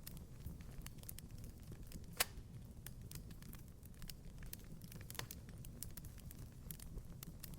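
Wood fire crackling in a fireplace: scattered small pops over a low rumble, with one sharper pop about two seconds in.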